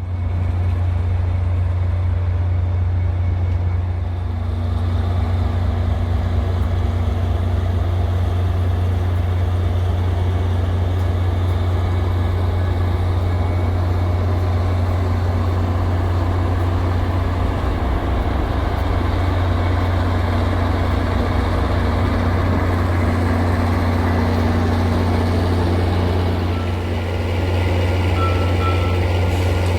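A heavy engine running steadily with a loud, low drone. Near the end a short high beep repeats a few times.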